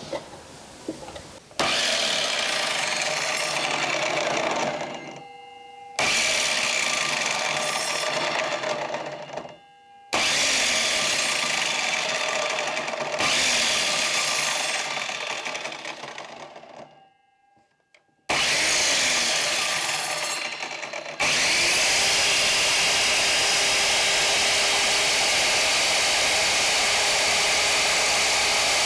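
Einhell TC-MS 2112 mitre saw's motor and blade running in several bursts, each winding down with a falling whine, then one long steady run near the end, while cutting a 45-degree angle into a piece of wood too thick for the saw to cut through completely.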